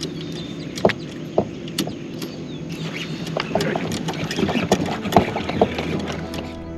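Irregular sharp knocks and clicks over a steady low hum, coming thicker and busier in the second half.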